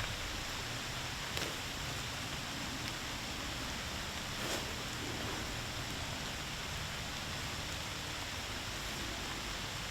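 Steady hiss of rain falling, with a faint tick or two.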